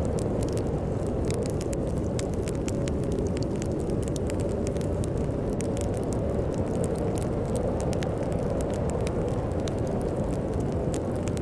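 Steady low storm wind blowing, with a wood fire crackling over it in frequent small pops and snaps.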